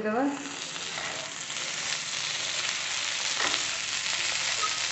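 Diced boiled potatoes frying in mustard oil in a non-stick pan, a steady sizzling hiss, while a wooden spatula stirs them with a few faint scrapes.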